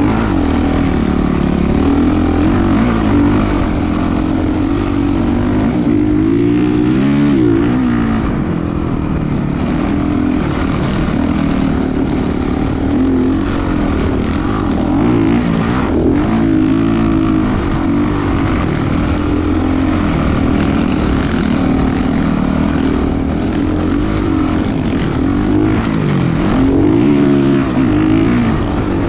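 Motocross dirt bike engine running, its pitch rising and falling over and over with the throttle.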